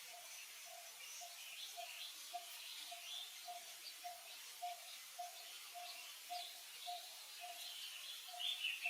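Wild birds chirping in short scattered calls, over a steady low call repeating a little over twice a second, with the chirps growing busier near the end.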